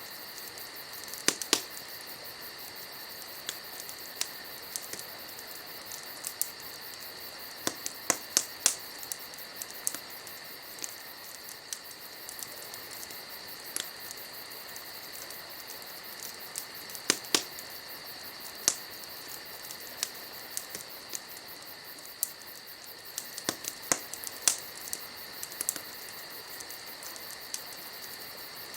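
Wood campfire crackling, with irregular sharp pops and snaps, the loudest clusters about a second and a half in, around eight seconds, around seventeen seconds and around twenty-four seconds. A steady high chirring of insects runs under it.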